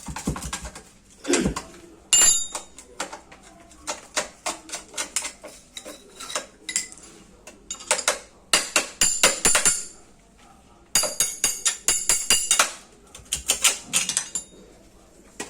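Metal parts and hand tools of a sugarcane press being handled and knocked together: quick clusters of sharp clinks and knocks, a few with a short metallic ring, with brief pauses between clusters.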